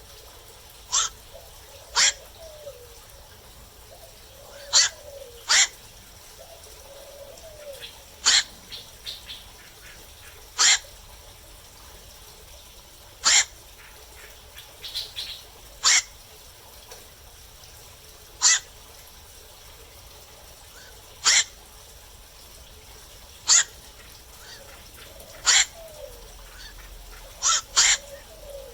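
Black-crowned night herons calling at night: short, harsh 'kwok' calls, one every two to three seconds, sometimes two in quick succession.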